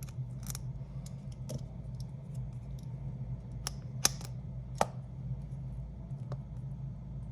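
Small clicks and taps of hand repair tools working on the opened iPad's internals, with two sharper clicks about four and five seconds in, over a steady low hum.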